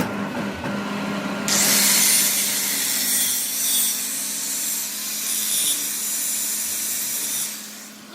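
A workshop machine's motor hums steadily while a tool rubs abrasively against the metal work. The harsh hissing starts about a second and a half in and stops shortly before the end.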